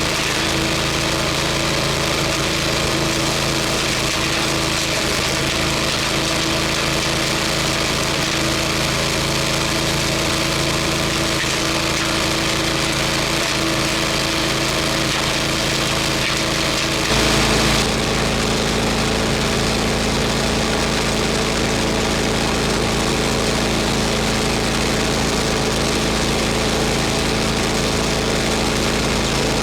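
Gas-engine wood chipper running steadily. About seventeen seconds in there is a short louder burst, and after it the engine's note changes.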